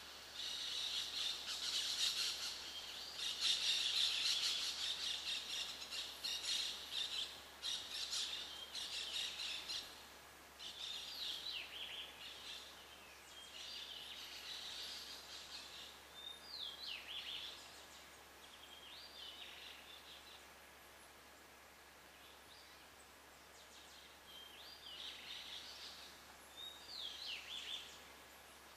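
Birds calling: a dense run of high chattering calls for the first ten seconds or so, then scattered short calls with quick downward-slurred notes.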